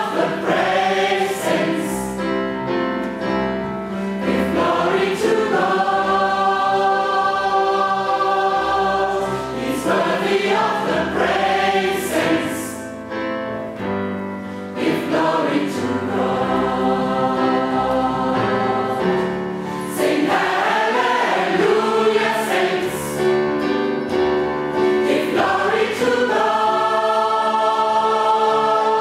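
A choir singing a sacred song in parts, its voices moving between phrases and long held chords.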